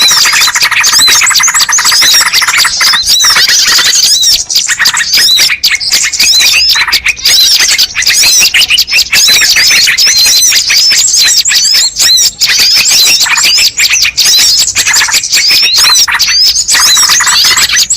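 Bird-lure recording: a loud, dense chorus of small birds chirping and squeaking rapidly and without pause, the high, quick calls overlapping one another.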